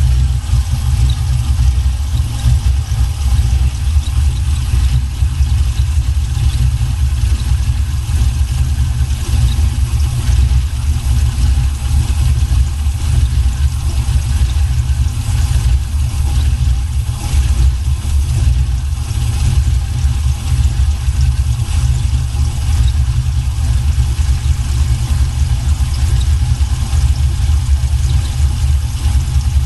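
The Regal's 6.0-litre V8 engine idling steadily with a deep, even rumble, freshly started after its rear main seal was replaced.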